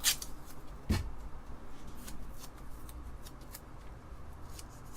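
Hands handling and fitting keyboard parts on a bench: a sharp rustle right at the start, a knock about a second in, then light scattered ticks and rustling.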